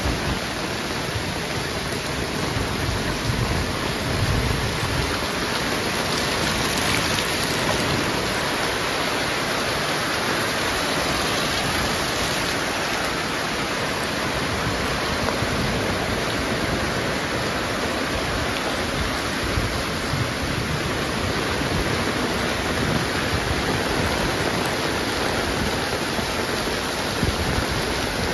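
Heavy rain pouring steadily, a dense even hiss, with a low rumble swelling in the first few seconds.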